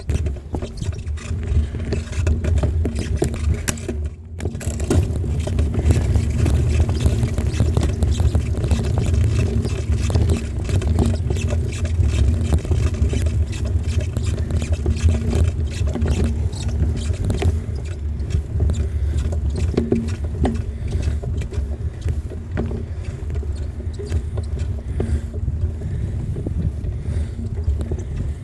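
Riding a bicycle along a paved path: a steady low wind rumble on the microphone mixed with the bike's rattling and tyre noise. It drops briefly about four seconds in.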